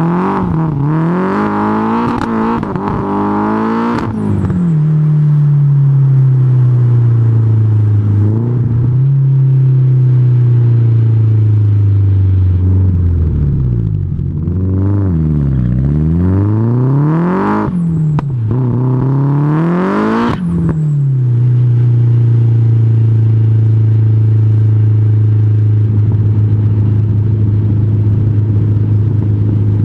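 Nissan S14 Silvia's SR20DET turbocharged four-cylinder exhaust, the engine revved in several quick blips near the start and again in the middle. In between, the revs sink slowly. Over the last third it runs at a steady low speed.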